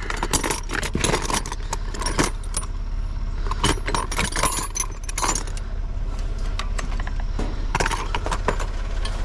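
Metal hand tools and hardware clinking and rattling, wrenches and bolts being handled, in many short irregular clinks. An engine idles underneath as a steady low hum.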